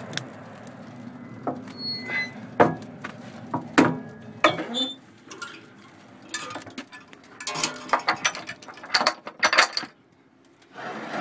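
Steel firebox door of a Blue Forge gasification wood furnace being shut and latched: a run of metallic clanks, clicks and brief ringing clinks. A low steady hum runs under the first half and drops away about halfway through.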